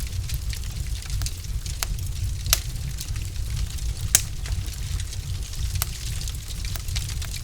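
Wood fire crackling in a fireplace: irregular sharp pops and snaps over a steady low rumble of burning logs, with the two loudest pops about two and a half and four seconds in.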